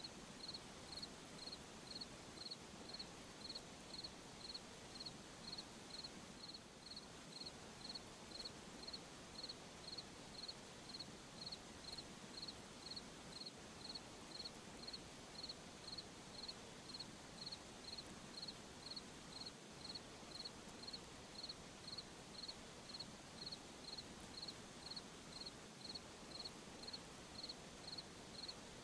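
Crickets chirping at night in a steady, even rhythm of about two chirps a second, high-pitched and faint, over a soft background hiss.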